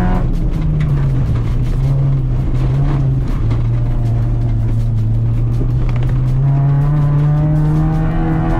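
Acura RSX's 2.0-litre four-cylinder engine heard from inside the cabin while driving hard: the revs ease down over the first few seconds, hold lower through the middle, and climb again about six seconds in.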